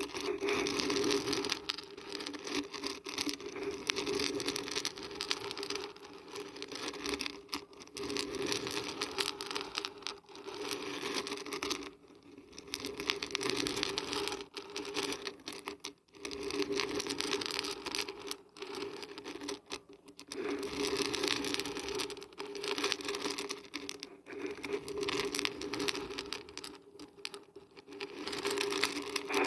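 Dried beans and barberries being shaken, a dense patter of many small hard pieces rattling against each other, in bouts of a few seconds with short pauses between.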